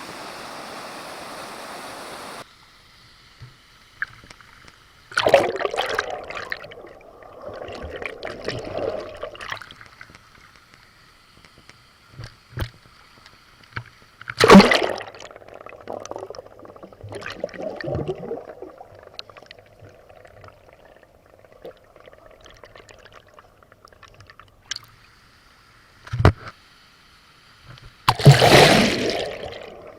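The steady rush of a waterfall stops abruptly a couple of seconds in. What follows is quieter, broken by five or so sudden bursts of splashing and sloshing water.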